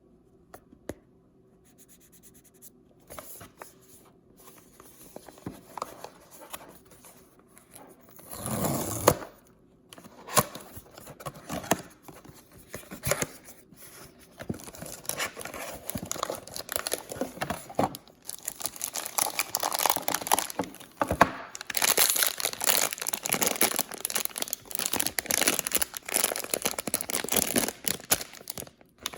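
Paper packaging being torn open and crumpled by hand: quiet at first, a loud tearing rip about eight seconds in, then continuous crinkling and crackling that grows louder over the last half.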